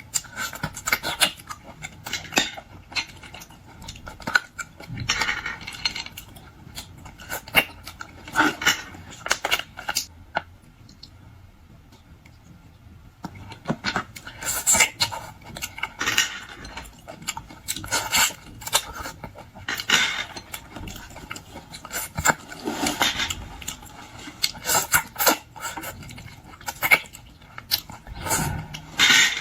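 Close-up eating sounds of boiled shellfish being handled: irregular clicks, crackles and scrapes of shells and tableware, with a quieter stretch about ten seconds in.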